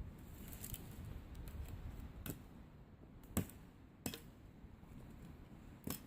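An axe cutting spruce wood: four sharp, irregular knocks, the loudest about halfway through, over faint rustling.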